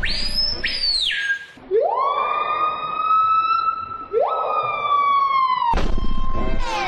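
Lyrebird mimicking a siren. There is one quick whoop that shoots up high and falls away, then two long wails that slide up and hold before cutting off abruptly.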